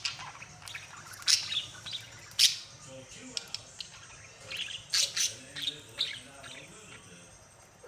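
Pet budgerigars chirping: short, sharp, high-pitched chirps, single ones at first and then a quick cluster about five seconds in, with fainter chatter between.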